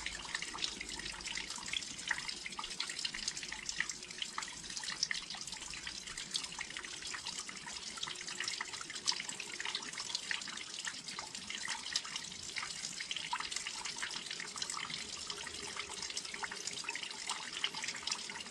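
Steady rain, many drops pattering and dripping on a windowsill, a dense run of small sharp taps over a hiss.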